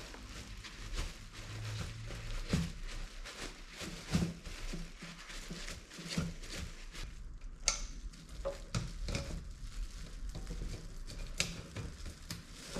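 Irregular small clicks, taps and rattles of the car window regulator's plastic and metal parts being handled and fitted, over a faint steady low hum.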